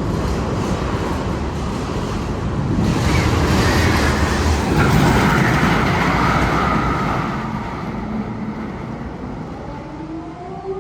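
Roller coaster train rumbling along the track, building to its loudest midway and then fading. A rising siren-like wail begins near the end.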